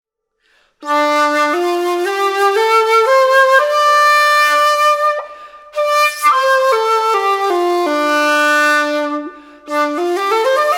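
Senshu Shakuhachi Kobo Original TypeB 1.8-shaku shakuhachi playing a scale up from its lowest note, holding the top note, then stepping back down to the low note. After a short pause a new upward run starts near the end.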